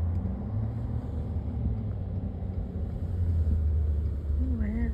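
A steady low rumble throughout, with a person's voice starting near the end.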